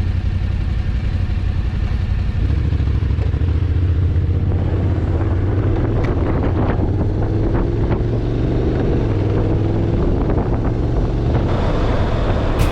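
Motorcycle engine running while riding, with road and wind noise, its pitch rising slowly in the second half.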